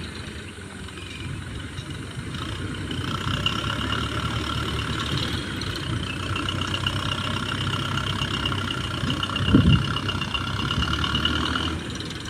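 Heavy diesel engine running steadily. A high steady whine joins it about three seconds in, and a single heavy thump comes near the end.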